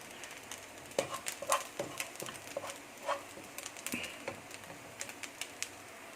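Spatula scraping and clicking against a frying pan as diced chicken is pushed aside, in short irregular knocks over a faint steady sizzle.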